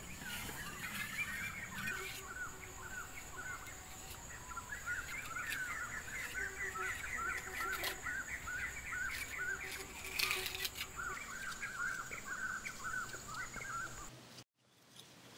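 Forest ambience: a bird calling in quick runs of short, repeated chirping notes over a steady high-pitched insect drone, which cuts off near the end.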